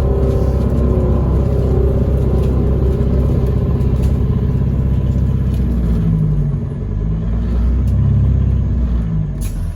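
Single-deck or double-deck service bus heard from inside the passenger cabin: steady engine and road rumble as it drives, with the engine note dipping and then rising again about six to eight seconds in.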